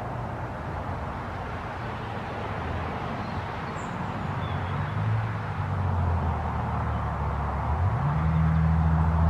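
A car's engine and exhaust note approaching, a low hum that grows steadily louder through the second half and rises in pitch near the end as the engine revs up.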